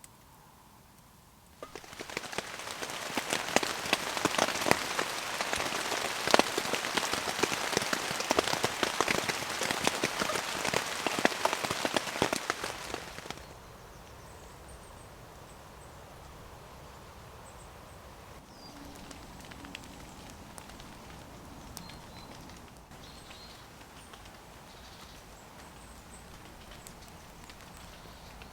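Heavy rain falling on a tent, a dense, loud patter of drops that starts suddenly about two seconds in and stops abruptly about halfway through. After that, a much quieter, steady patter of light rain and drips remains.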